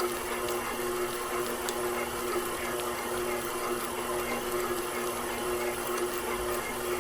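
KitchenAid Professional 6000 HD stand mixer with a DC motor running steadily at low speed, its spiral dough hook kneading bread dough; a steady hum of a few tones over a whirring hiss.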